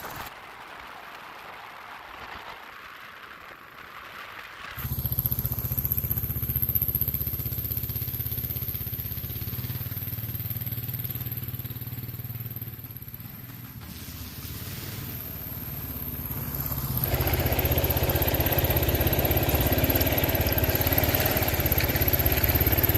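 Kawasaki KLR 650's single-cylinder four-stroke engine running while the bike is ridden. It comes in loud and sudden about five seconds in, eases off briefly past the middle, then builds again as the bike speeds up, with more rushing noise in the last few seconds.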